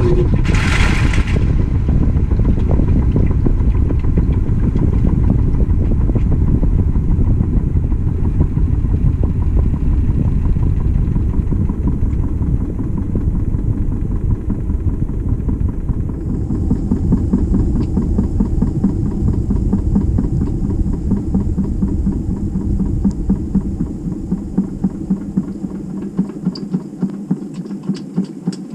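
GE GTW220ACKWW top-loading washer heard from inside its tub: the drum and motor run with a loud, dense rumble and rattle. About halfway through a faint high whine joins. Near the end the deep rumble falls away, leaving a regular throbbing pulse.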